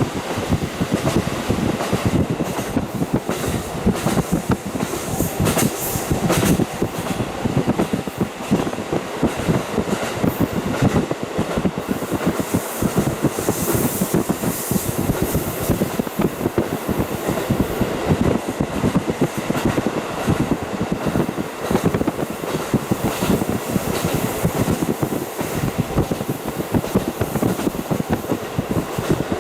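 KiHa 40 diesel railcar running on the line, heard through a fully open window: wheels clattering over the rails with rushing air. A higher hiss swells twice, around five and fourteen seconds in.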